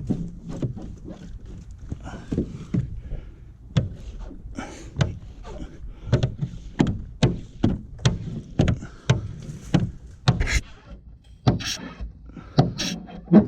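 Squeegee and hand work on wet window tint film laid over a car's rear glass: an irregular run of short rubbing strokes and knocks.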